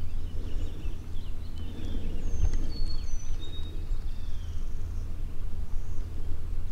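Small birds singing short high whistled notes and chirps over a steady low rumble, the birdsong thinning out after about four seconds.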